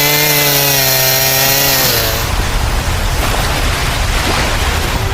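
A small motor buzzing at a steady pitch, which gives way about two seconds in to a rough, noisy rumble.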